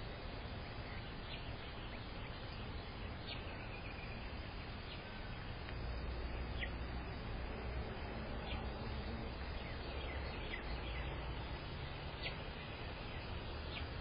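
Short, high bird chirps every second or two over a steady outdoor background hiss, with a low rumble that grows louder about six seconds in.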